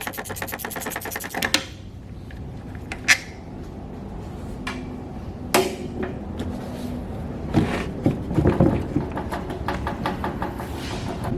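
Ratchet wrench clicking rapidly for about a second and a half, then scattered sharp knocks and a cluster of clanks and rattles near the end as metal engine parts are worked loose and handled.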